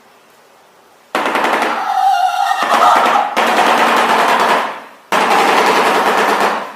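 Shoebill clattering its bill: a loud, very rapid rattle of clicks that starts about a second in and comes in three bouts with short breaks between them.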